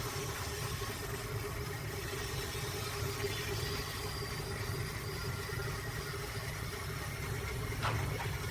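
Electric wood lathe motor running steadily with a constant low hum.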